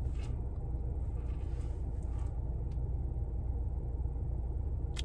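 Steady low hum of a car idling, heard from inside its cabin, with a sharp click near the end.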